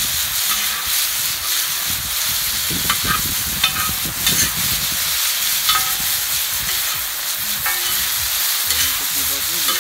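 Pelmeni frying in oil in a wide black pan, sizzling steadily. A metal ladle scrapes and stirs through them, with a few sharp clinks against the pan.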